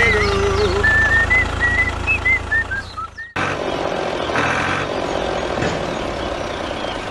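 Small motor of a DIY mini tractor running steadily, with high warbling melodic tones over it for the first three seconds; the sound cuts abruptly about three seconds in to a steady, noisier motor run.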